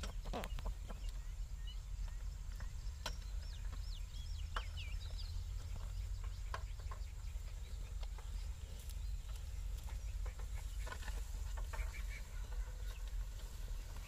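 Birds chirping in short, quickly bending calls, mostly a few seconds in, over a steady low rumble, with a few short clicks scattered through.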